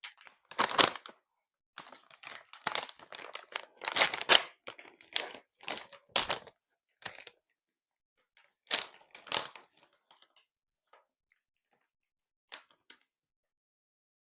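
Plastic snack packaging crinkling and crackling as it is handled and opened, in sharp crackles at uneven intervals that thin out after about ten seconds.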